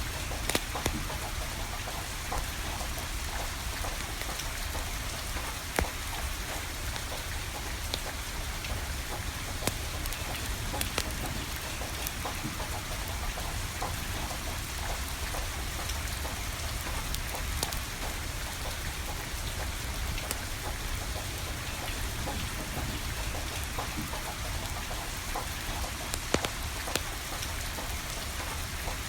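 Steady rain pattering down, with a wood fire crackling through it in scattered sharp pops.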